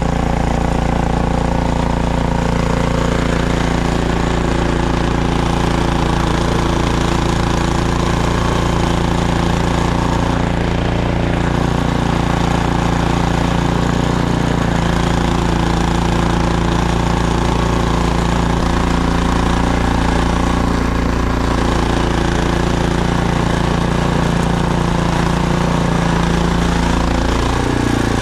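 Snowblower engine running steadily at working speed while clearing snow, with a slight shift in its note near the end.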